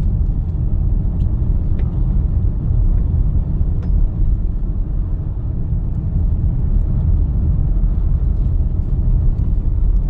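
Steady low rumble of a car driving along a road, road and engine noise heard from inside the cabin, with a few faint ticks.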